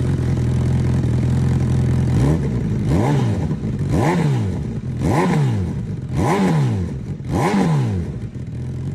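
Honda CB650R's inline-four engine through an Ixil Extreme Carbon full exhaust, idling steadily. About two seconds in it is blipped six times in quick succession, each rev rising and falling back within about half a second, before it settles back to idle near the end.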